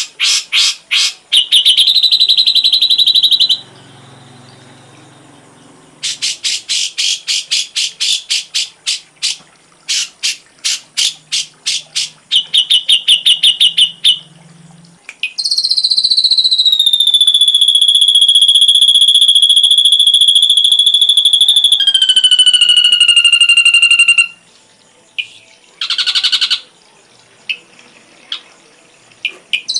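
Ashy drongo song from a songbird-training recording, with mimicked calls. Fast runs of sharp repeated notes in the first half, then a long high whistle that slides down and is held for several seconds. It ends with a short falling note and a few scattered calls.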